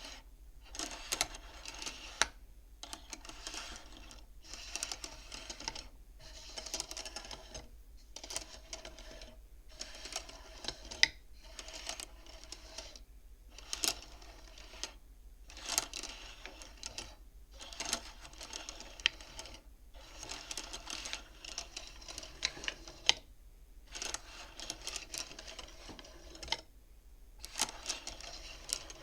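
Beads of a bead abacus being slid along its rods, clicking and clacking against each other in repeated rattling runs with short pauses between.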